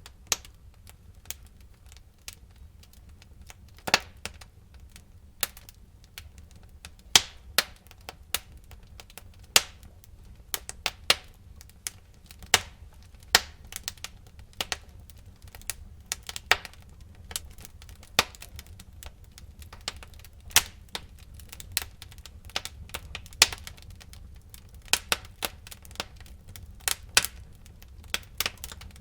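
Wood fire burning in a fireplace: irregular sharp crackles and pops from the burning logs, a few a second and uneven in loudness, over a low steady rumble of the flames.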